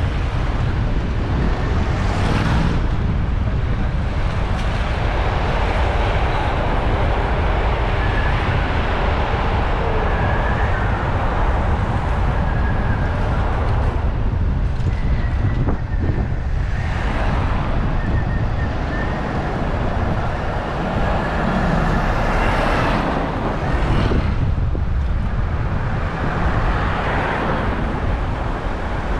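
City road traffic heard from a bicycle-mounted action camera, with a steady wind rumble on the microphone and vehicles passing a few times.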